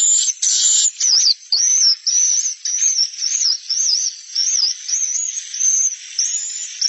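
Edible-nest swiftlet calls, the 'suara inap' roosting lure played to draw swiftlets to stay in a swiftlet house: harsh buzzy chattering for about the first second, then a steady run of quick wavering high chirps, about two a second.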